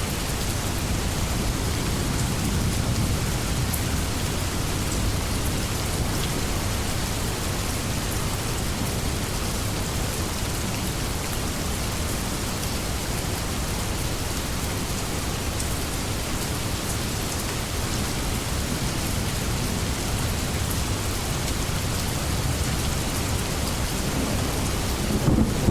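A steady rainstorm: rain falls in a continuous even hiss with low rumbling underneath. Just before the end, a louder roll of thunder starts.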